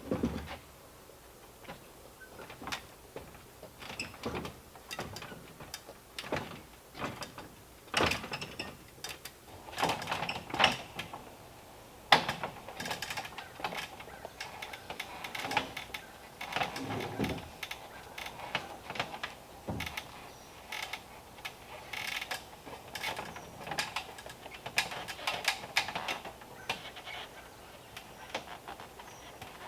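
Irregular knocks, clicks and scraping of hand work on timber, with a few louder strikes scattered through.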